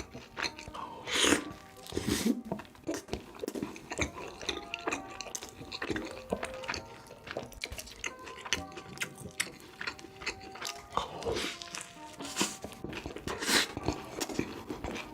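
Close-miked mukbang eating: repeated crunchy bites and chewing, each crunch short and sharp, over background music.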